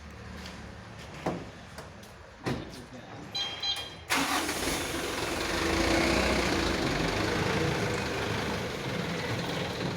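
A few clicks and a short run of high beeps, then about four seconds in a Mitsubishi Fuso truck's diesel engine starts and keeps running.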